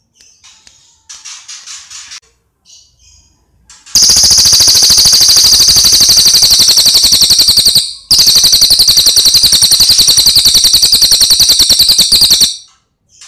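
A cililin songbird giving a few soft chirps, then two long, very loud rapid rattling trills of about four seconds each, one straight after the other.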